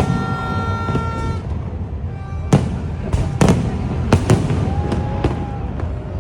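Fireworks exploding overhead: a string of sharp bangs, the loudest about two and a half seconds in, with more following every second or so over a steady low rumble.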